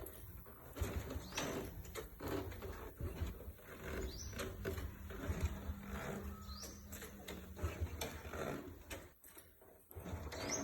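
50cc Cub motorbike being kick-started over and over, with irregular clattering and thumps and a short rising chirp every couple of seconds, and no engine catching. The tank is out of petrol.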